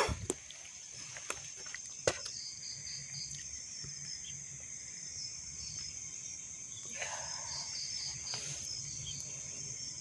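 Crickets and other night insects chirping steadily, a high continuous trill with pulsing chirps under it. A sharp click comes about two seconds in and a brief rustle around seven seconds in.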